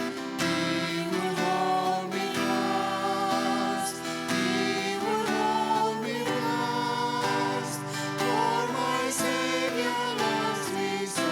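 Acoustic guitar playing with a sung or played melody line over it, church worship music.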